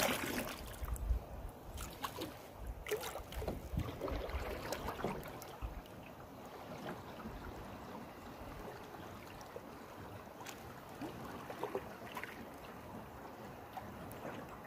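A canoe being paddled through swift river current, with water swishing and splashing against paddle and hull. A few sharp knocks come in the first few seconds, then the sound settles to a steadier water noise.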